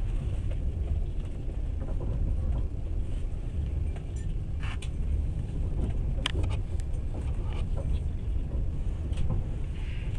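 Passenger train running along the line, heard from inside the carriage: a steady low rumble of wheels on rails, with a few sharp clicks and rattles over several seconds in the middle.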